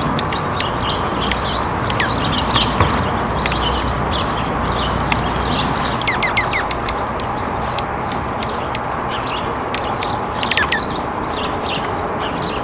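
Small birds chirping and calling in quick short notes, with a few falling chirps about six and ten seconds in, over a steady background hiss.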